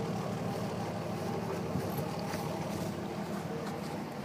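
An engine running steadily at an even speed, a low, unchanging hum.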